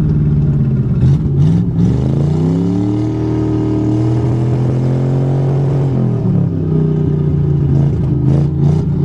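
Old carbureted car engine running just after a cold start with its choke removed. The revs rise about two seconds in, hold higher for about three seconds, then drop back to idle.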